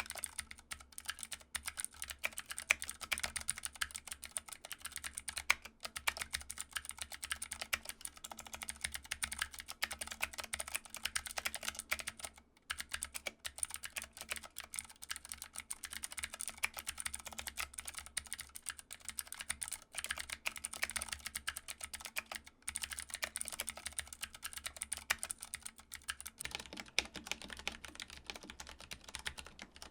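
Fast, continuous typing on a mechanical keyboard, keystrokes clicking several times a second. Near the end the background shifts, as if to another keyboard or recording.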